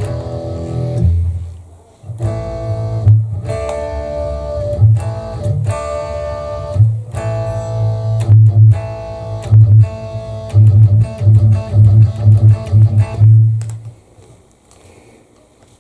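Electric guitar played through a car audio amplifier and subwoofer: strummed chords with heavy, boomy bass, a short break about two seconds in, then a run of quick stabbed chords that stops suddenly near the end.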